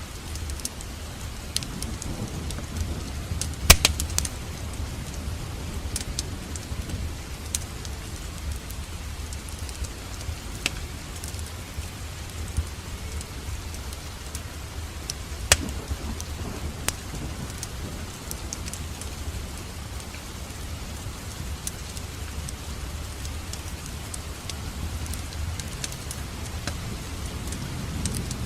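Wood fire in a fireplace crackling, with scattered sharp snaps over a steady low rumble of the flames. A couple of louder pops come about four seconds in and again near the middle.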